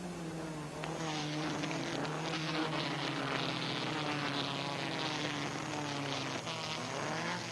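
Racing sports car engine running hard in a steady, buzzing drone, its pitch sliding slowly down, then cutting off abruptly at the end.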